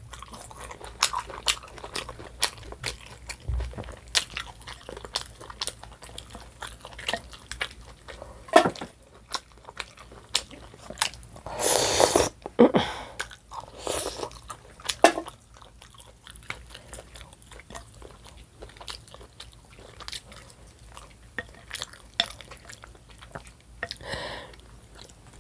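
A person chewing and biting food close to the microphone: a meal of mussels and Polish sausage, eaten mukbang-style. There are many small wet mouth clicks throughout, and a few louder bites and crunches, the loudest about halfway through.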